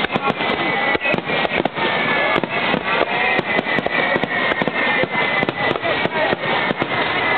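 Edo-hanabi-style starmine fireworks barrage: a rapid, irregular string of bangs and crackles, with several high whistles overlapping and slowly falling in pitch.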